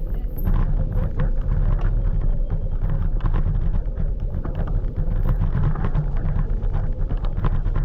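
A scooter travelling along a street: a steady low rumble from the ride, with wind on the microphone, a constant thin hum and many small knocks and rattles throughout.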